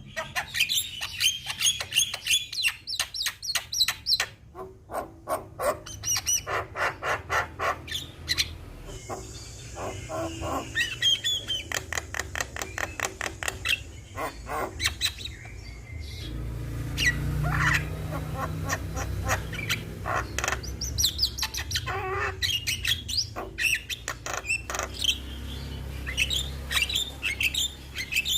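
Javan myna (jalak kebo) singing a long, rapid song of fast repeated chattering notes mixed with short rising whistles, hardly pausing throughout.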